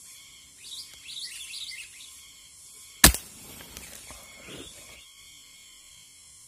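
Small birds chirping in short twittering notes, broken about three seconds in by a single sharp crack from an uklik, a homemade Indonesian air rifle, after which a few more chirps follow.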